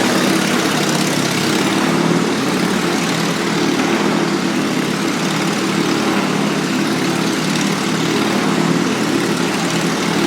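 The engine of a roughly 100-year-old motorcycle running steadily at a constant pace as it circles the Wall of Death.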